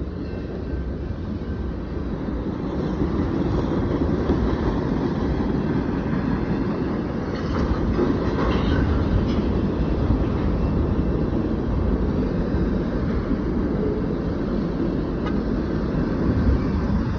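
Freight train of boxcars rolling past, a steady rumble of steel wheels on the rails.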